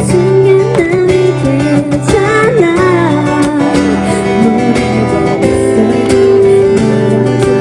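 Live acoustic pop song: strummed acoustic guitar chords with a woman singing a melody over them.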